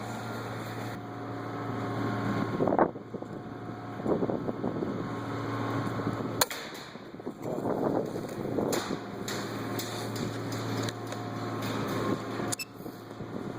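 Steady low machine hum with noise that swells and fades several times, and two sharp clicks, about halfway through and near the end.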